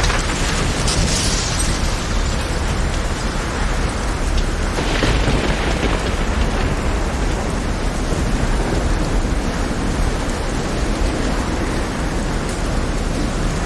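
Heavy rain over a rough sea: a steady dense hiss with a deep rumble underneath, and brighter splashing surges about a second in and about five seconds in.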